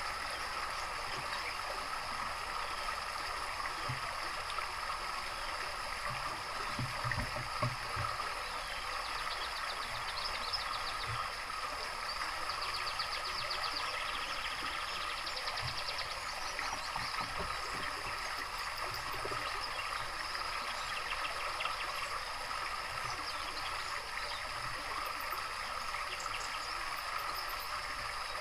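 Water trickling and gurgling steadily in a small stream or water feature. Songbirds sing rapid high trills over it now and then, most of them through the middle of the stretch.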